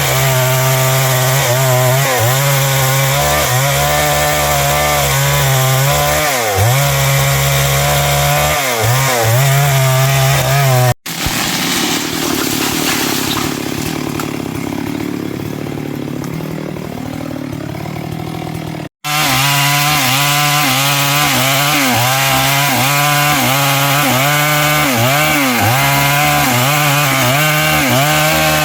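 Stihl MS 382 two-stroke chainsaw running at high revs and cutting through wood, its engine pitch wavering and dipping as the chain loads up in the cut. The sound breaks off abruptly twice; between those breaks is a quieter stretch where the engine runs lower and then revs up, and near the end the revs drop.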